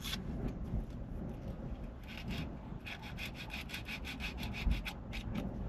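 Sandpaper being rubbed by hand back and forth over a steering wheel rim, smoothing out worn dents: a few scattered strokes, then a quick run of short scratchy strokes about six a second from about halfway in.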